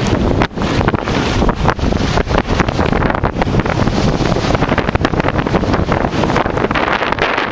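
Wind buffeting the microphone in irregular gusts aboard a sailboat under way.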